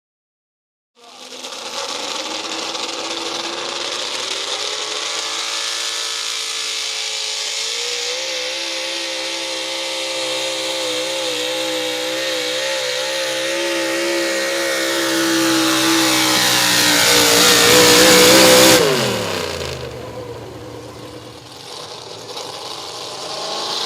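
A super stock pulling truck's engine running hard at high revs, starting about a second in. It climbs in pitch and grows louder until about nineteen seconds in, then cuts back sharply with the pitch falling away. It runs quieter for a few seconds and picks up again near the end.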